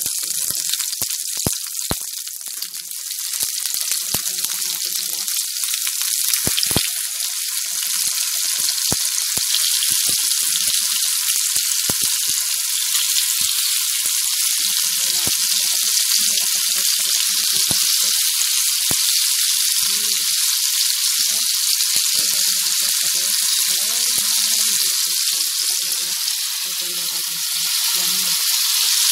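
Chicken thighs frying in hot oil in a pan: a steady high sizzle, with many sharp pops of spattering oil in the first several seconds. The sizzle grows louder a few seconds in and then holds steady.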